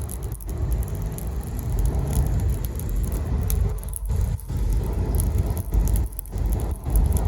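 Loud, gusty low rumble with brief drops, typical of wind buffeting the microphone at an outdoor bonfire.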